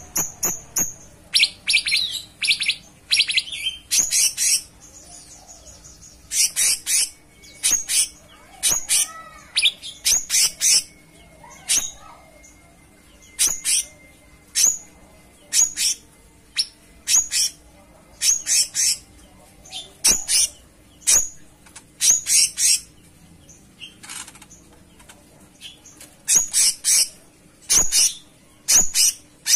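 Cucak cungkok, a bulbul, calling: short, sharp high chirps repeated over and over in quick clusters with brief pauses between. A faint steady hum lies underneath.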